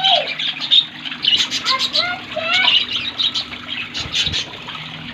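A colony of budgerigars chattering: many short, rapid chirps and rising warbled calls overlapping, with a steady low hum underneath.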